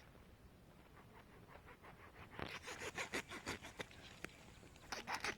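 Knife sawing through fish pieces: quiet at first, then a quick run of short cutting strokes about halfway through and a few more near the end.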